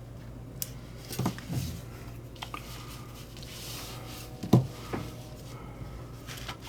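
Scattered clicks and knocks of small tools and lighter parts being handled on a workbench, the loudest knock about four and a half seconds in, over a steady low hum.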